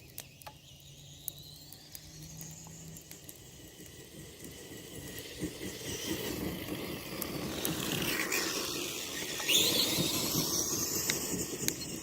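Tamiya TXT-2 RC monster truck driving, its twin electric motors whining up and down in pitch over the rough noise of the tyres on the ground. The sound builds over several seconds and is loudest near the end.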